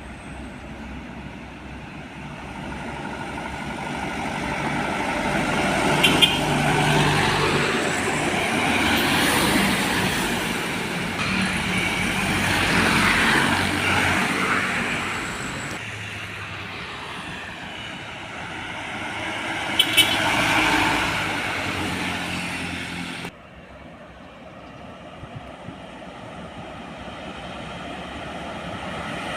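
Heavy road traffic: trucks and buses passing one after another, their engine and tyre noise swelling and fading several times. Two brief sharp sounds stand out, about six seconds in and again about twenty seconds in.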